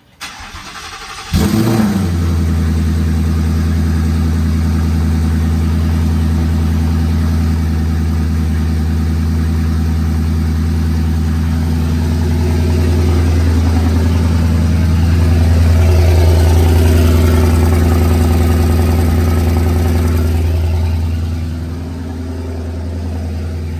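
Twin-turbo Ford Mustang with exhaust dumps fitted starting up: it catches suddenly about a second in and then idles loudly and steadily. The idle swells a little midway and settles lower near the end.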